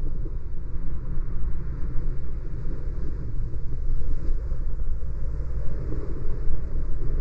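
Car driving along a city street: a steady low rumble of road and engine noise that holds even throughout.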